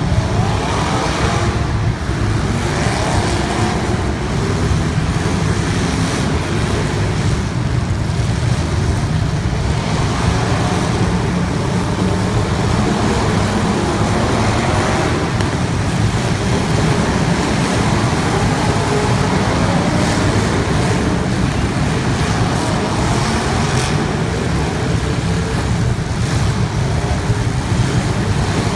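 Race-car engines running continuously, with engine notes rising and falling over a steady low rumble.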